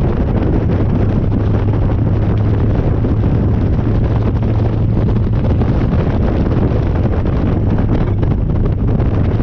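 Harley-Davidson Dyna's V-twin engine running at a steady cruise while riding, with heavy wind noise on the microphone.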